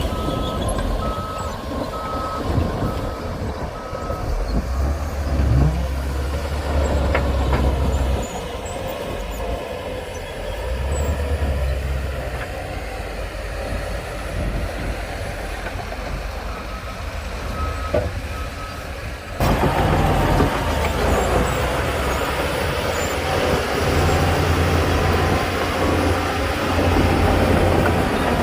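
Heavy diesel earthmoving machinery running, with a deep engine rumble that swells and eases. A reversing alarm beeps at an even pace for the first few seconds and again briefly later on. The sound changes suddenly about two-thirds of the way through.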